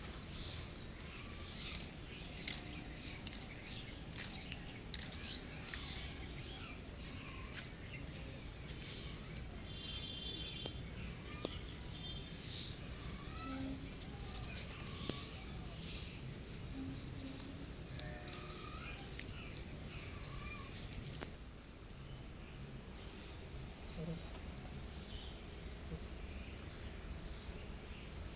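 Outdoor ambience: many short, high bird chirps over a steady high insect trill, likely crickets.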